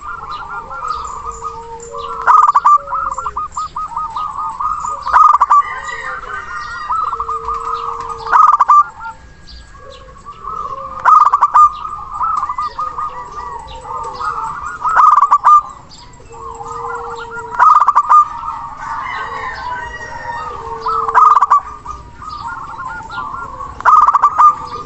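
Zebra dove (perkutut) cooing in repeated phrases, with a loud call about every three seconds over a steady stream of bird calls.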